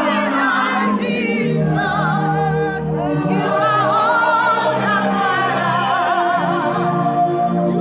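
Choir and congregation singing a gospel worship song, several voices with vibrato holding long notes over a sustained accompaniment.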